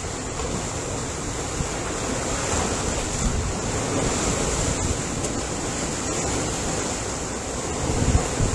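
Ocean waves washing on the shore as a steady surf that swells and eases slowly, with low gusty buffeting near the end.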